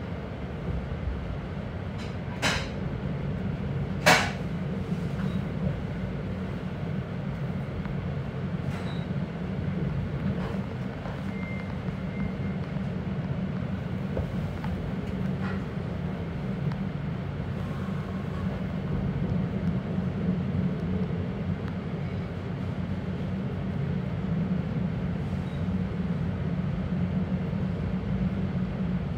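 Inside a regional train running slowly along the track: a steady low rumble of the wheels and running gear. Two sharp knocks come about two and a half and four seconds in, the second the loudest.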